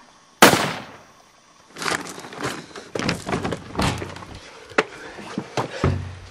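Heavy blows against a door: one loud slam about half a second in, then a run of uneven knocks and crashes.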